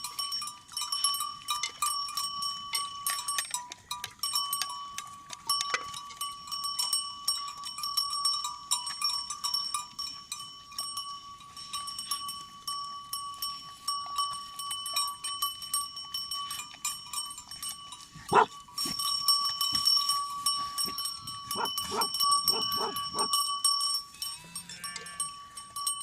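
A flock of sheep bleating now and then, over a steady high ringing from livestock bells and a dense clatter.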